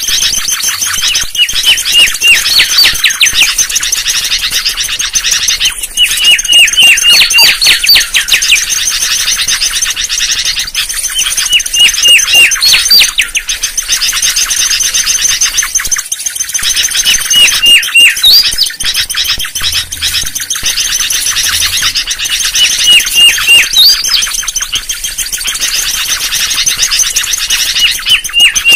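Mangrove Whistler singing: a phrase of a few short clear notes ending in quick upward-sweeping whistles, repeated about every five seconds over a steady high-pitched hiss.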